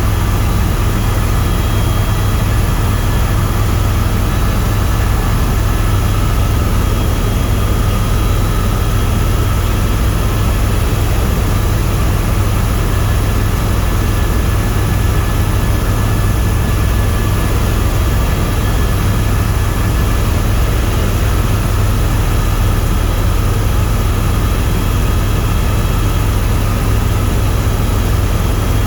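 Tour helicopter in flight: a steady, loud drone of rotor and turbine engine that holds unchanged throughout, deepest at the low end with a few faint steady tones above.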